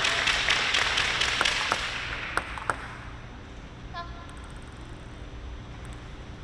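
Arena crowd applause fading away, with a few sharp clicks of a table tennis ball, then one short squeak with a falling pitch about four seconds in.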